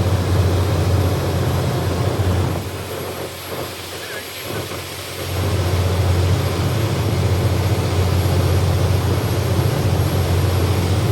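Passenger ferry's engines droning steadily under a rush of wind noise on the microphone. About two and a half seconds in, the low drone and wind drop away for nearly three seconds, then come back.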